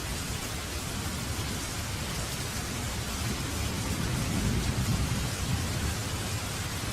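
Steady heavy rain, with a low rumble of thunder swelling up in the middle and fading again.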